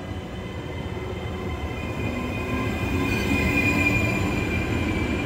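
Hitachi Rock double-deck electric multiple unit running into the platform, a steady rumble that grows louder as it draws alongside. A high, steady squeal joins in about two seconds in.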